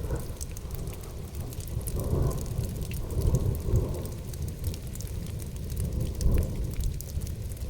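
Rain falling, with a scatter of sharp drop ticks over a low rolling rumble of thunder that swells and fades several times.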